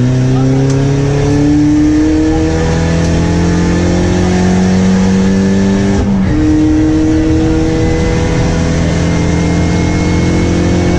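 Car engine running under load at a steady loud level, its pitch climbing slowly over the first few seconds, dropping sharply about six seconds in, then holding steady.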